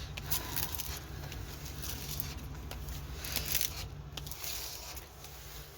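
Rustling and light crinkling as a diamond painting canvas in its thin plastic cover is handled and unrolled, with scattered small ticks over a steady low hum.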